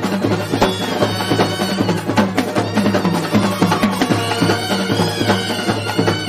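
Loud live band music from a Kerala festival band set: a reedy wind-instrument melody with wavering, bending notes over fast, steady drum beats.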